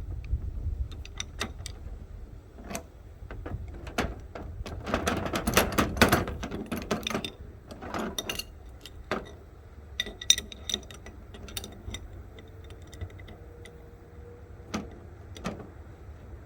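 Irregular clinks, clicks and knocks of metal tools and plumbing fittings being handled and worked, busiest in the middle, over a steady low rumble.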